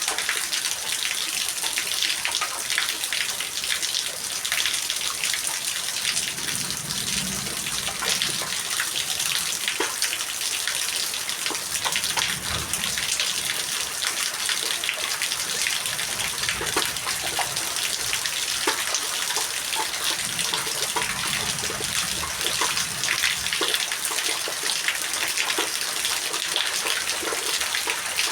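Steady rainfall, a constant hiss dotted with many separate drops ticking and splashing close by. Soft low rumbles swell a few times underneath.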